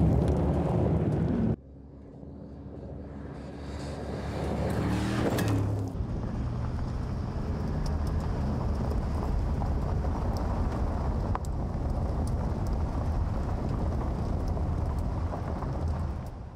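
Mercedes-AMG G63's twin-turbo V8 engine driving hard on a dirt track, with tyre noise, in several edited clips: loud at first, cut short about a second and a half in, then building up toward about six seconds, and running steadily after that.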